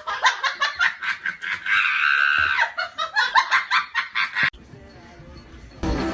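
A person laughing hard in quick rhythmic bursts, with a held high note partway through. The laughter cuts off suddenly about four and a half seconds in.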